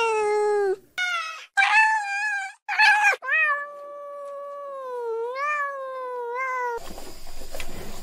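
A domestic cat meowing repeatedly: a long call, three short meows in quick succession, then one long drawn-out meow that wavers in pitch. It cuts off abruptly near the end and gives way to a noisy hiss with faint knocks.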